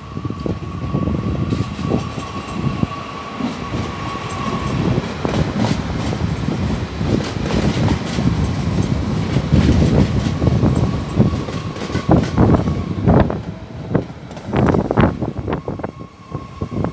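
A train passing close by, its wheels clattering over the rail joints in a steady run of clicks over a low rumble, with a steady high whine for the first few seconds.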